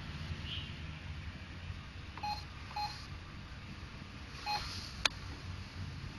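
Short electronic beeps from a Brother MFC-J615W printer: two beeps about half a second apart, a third about two seconds later, then a sharp click, over a low steady hum.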